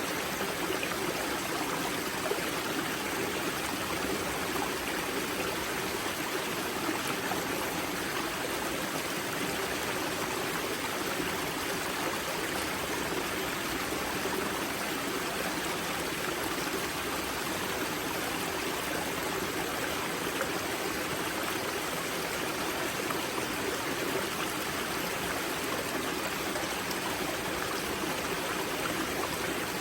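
Water from the spring source of the river Grza flowing and rushing over stones in a steady, unbroken stream.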